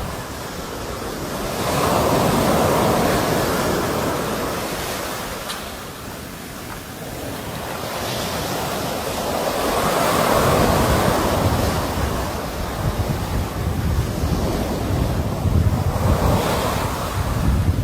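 Sea waves washing on the shore, the surf swelling and ebbing in slow surges several seconds apart. Wind buffets the microphone as a gusty low rumble through the second half.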